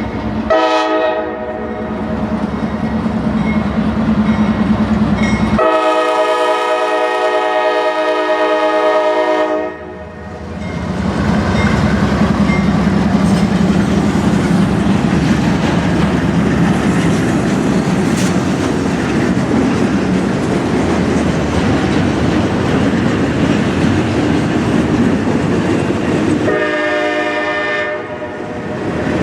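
Locomotive horn sounding three times over the steady rumble and rattle of a passing train: a short blast near the start, a long one of about four seconds, and another short one near the end.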